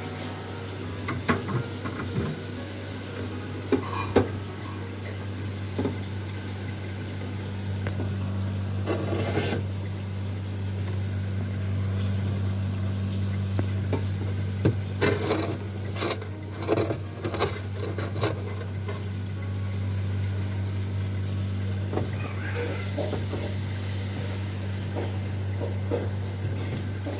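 Refrigerator compressor running with a steady low hum while R600a refrigerant is charged into the fridge, with scattered metal clinks and taps from tools and fittings, a quick cluster of them about halfway through.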